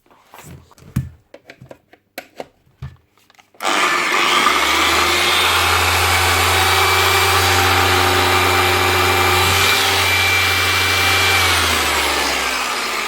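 A few light handling clicks, then a 6-inch DAS6 polisher is switched on about four seconds in and its electric motor runs steadily at full speed, easing off slightly near the end. This is the test run after new 6001 spindle bearings and a new pad have been fitted, replacing failed bearings that had let the spindle flap.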